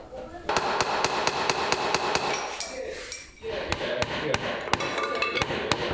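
Hand hammering in woodworking: a run of sharp, even taps about four a second, a short pause about halfway through, then more taps.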